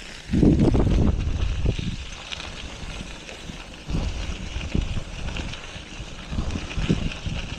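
Wind buffeting the microphone of a rider on a moving bicycle, coming in irregular low gusts. The strongest gust starts just after the beginning and lasts about a second, over a steady rushing hiss.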